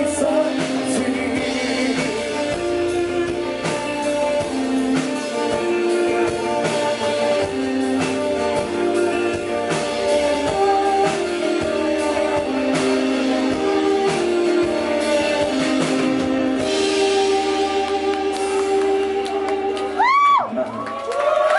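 Rock band playing live: electric guitar with drum kit and bass in an instrumental passage, with no singing. About twenty seconds in the music stops and a voice calls out.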